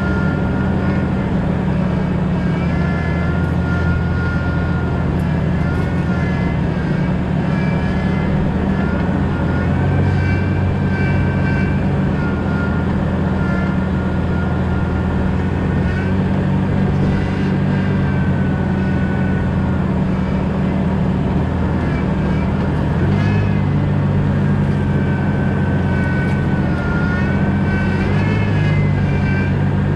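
A 2000 Jeep Cherokee XJ on the move: a steady low engine and road drone, with a faint high whine that wavers in pitch over it.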